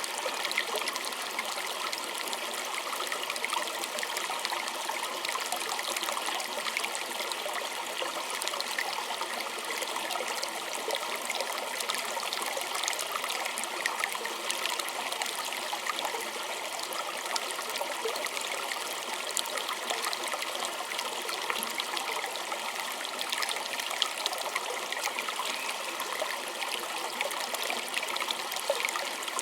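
A small stream trickling and babbling steadily over stones, with many fine splashes and droplet sounds and no deep rumble.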